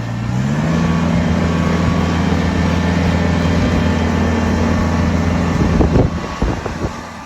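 Kubota BX23S compact tractor's diesel engine revving up, running steadily at higher speed, then dropping off about six seconds in, with a few knocks as it settles.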